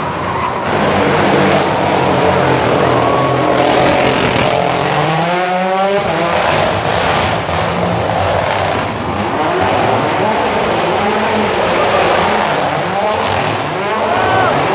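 WRC rally car engine revving hard. Its pitch climbs about five seconds in and falls away near the end, over constant tyre noise.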